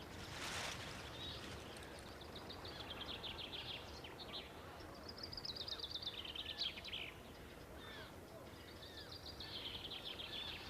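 Bird calls: several fast, high trills, each a quick run of repeated notes falling slightly in pitch, with a few short chirps between them, over a faint steady outdoor background.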